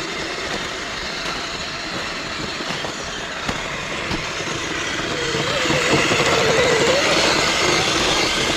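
Electric RC vehicles running over snow: a steady mechanical clatter and whir of motors and drivetrain, which grows louder about halfway through as a wavering motor whine rises and falls.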